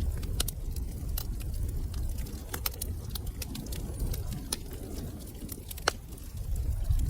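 Wood fire crackling: scattered sharp snaps and pops over a low steady rumble of the flames, with one louder pop about six seconds in.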